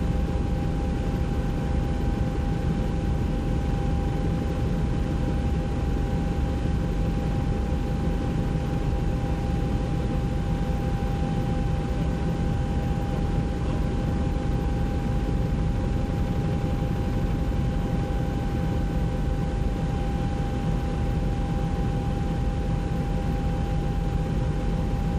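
Helicopter running steadily in flight, heard from inside the cabin: a constant drone of rotor and engine with a steady high whine.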